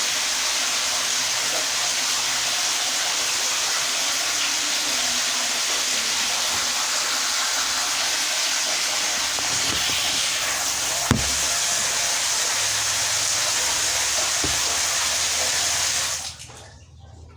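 Water spraying steadily in a loud, even hiss, as when washing-machine parts are rinsed during cleaning. It cuts off suddenly about sixteen seconds in, with a single knock about eleven seconds in.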